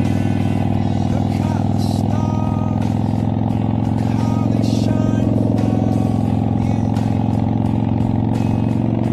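Harley-Davidson XL883R Sportster's air-cooled 883 cc V-twin running steadily through its exhaust at a constant engine speed, with no revving.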